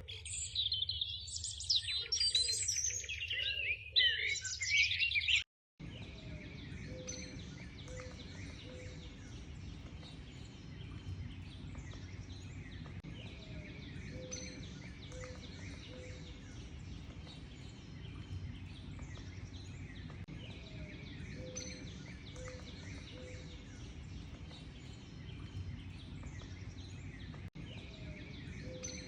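Loud, dense birdsong with many quick high chirps for about five seconds, cut off abruptly. A quieter outdoor bird recording follows: a steady background hiss with faint high chirping and a low call of three or four short notes, repeated about every seven seconds.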